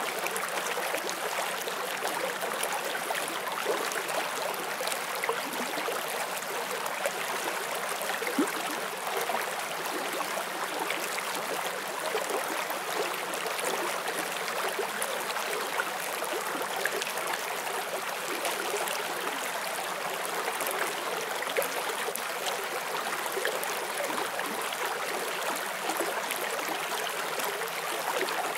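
Forest stream running over stones, a steady rush of water with small splashes and gurgles.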